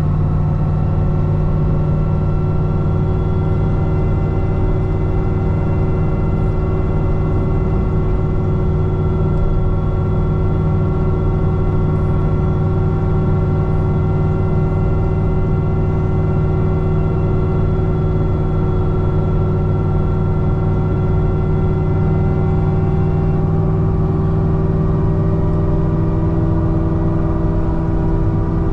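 Supercharged 6.2 L V8 of a modified C6 Corvette ZR1 droning at a steady highway cruise. Its pitch holds nearly constant and shifts slightly about three-quarters of the way through.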